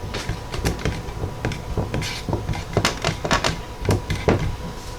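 A string of small irregular clicks and taps from a sign being handled and pressed into place with double-sided tape, over a faint steady hum.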